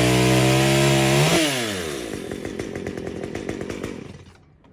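Two-stroke chainsaw running at full throttle through a tree trunk, then let off about a second and a half in: the engine note drops and fades away over the next couple of seconds.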